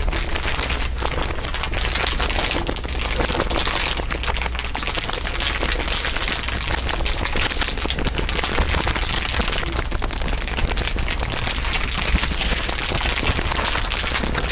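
Dense, continuous crinkling, several crinkle recordings layered on top of each other into a steady mass of fast crackles, with a low steady hum beneath.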